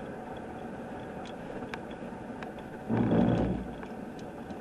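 Steady vehicle noise with scattered light ticks, and one louder rush lasting under a second about three seconds in.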